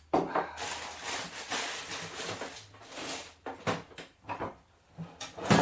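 Salad being prepared in a kitchen: a couple of seconds of continuous rustling and scraping, then a string of separate knocks and clatters, the loudest near the end.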